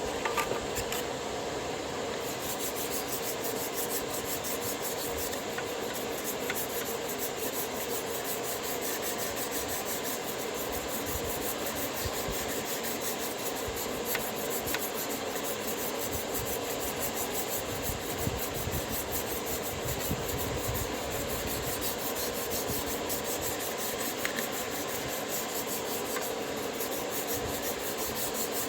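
Chisel blade being worked on a sharpening stone: a steady, continuous scraping of steel on abrasive.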